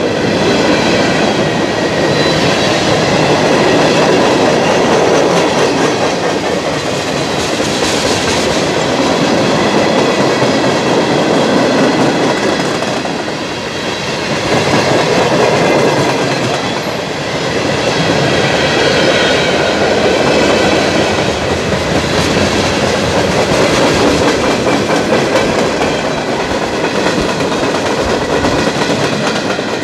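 Freight cars of a mixed freight train rolling past: a steady rumble and clatter of steel wheels on the rails, with a brief dip in loudness about halfway through.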